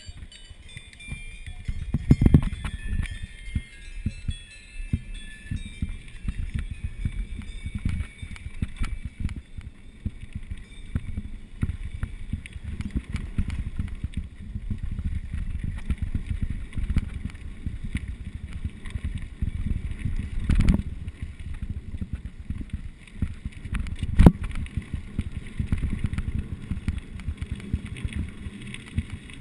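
Mountain bike being ridden over rough trail: a steady rumble of tyres and rattling parts, with wind on the microphone. A few sharp knocks come from hard bumps, one about two seconds in and two more later on.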